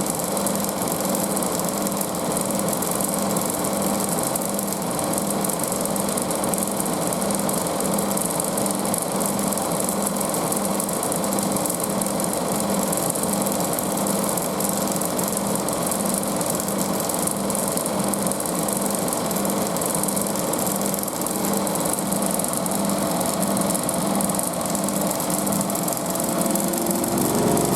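Front-loading washing machine in its high-speed final spin: a steady motor whine and drum hum with an even pulsing throb, with little cabinet vibration. Just before the end the low hum shifts as the drum speeds up toward 1500 rpm.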